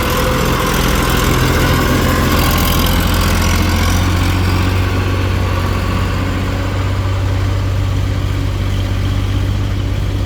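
Diesel engine running steadily at an even speed, with a strong low rumble and no change in pitch.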